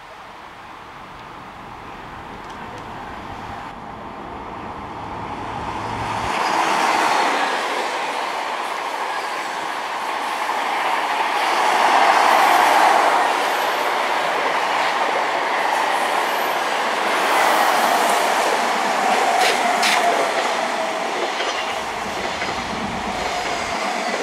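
A TGV inOui high-speed trainset, two units coupled, rolling past close by. The rail noise swells over the first several seconds and stays loud, with a few sharp clicks. In the last few seconds a faint squeal sinks slowly in pitch.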